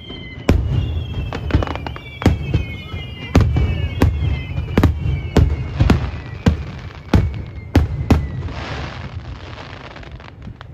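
Aerial firework shells bursting in quick succession, a heavy bang every half second to a second for about eight seconds, with high whistling tones slowly falling in pitch behind them. Near the end, the bangs give way to a crackling hiss that fades.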